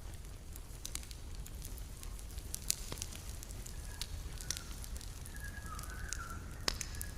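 Campfire crackling, with irregular sharp pops and snaps of burning wood over a low steady rumble.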